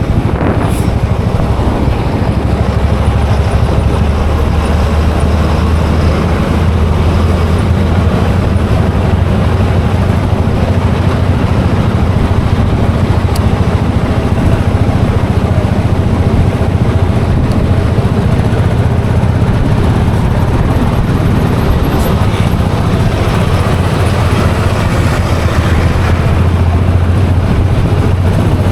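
Royal Enfield Classic 500 EFI's air-cooled single-cylinder engine running steadily while the motorcycle is ridden.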